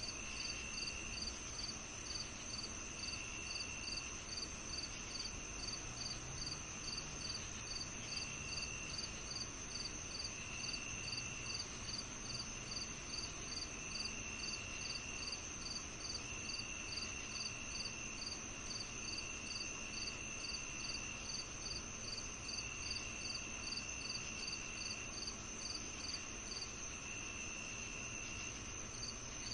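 Evening chorus of crickets and other insects: a steady high drone, a regular high chirp about two to three times a second, and lower buzzing trills of about a second every couple of seconds. The regular chirping stops a couple of seconds before the end.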